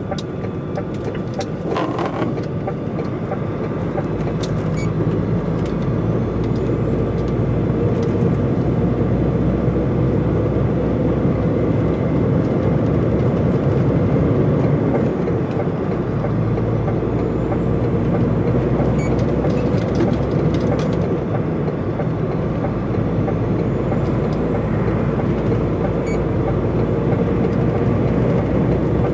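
DAF XF105.460 articulated truck running on the road: steady engine and road noise, getting slightly louder over the first half.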